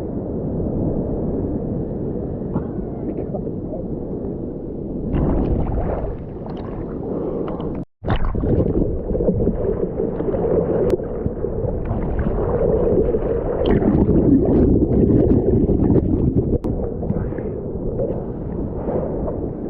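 Seawater sloshing and splashing around a waterproof camera as a swimmer kicks through ocean surf, muffled for the first few seconds and then with sharper splashes. The sound cuts out completely for an instant just before the middle.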